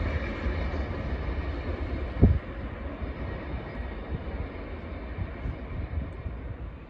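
A train running away into the distance, its low rumble slowly fading, with one brief low thump about two seconds in.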